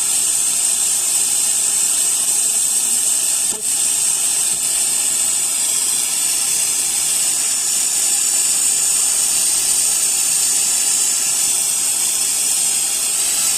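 Loud, steady hiss of static from a Gamma 200 amplifier played through a connected speaker, with one brief click about three and a half seconds in.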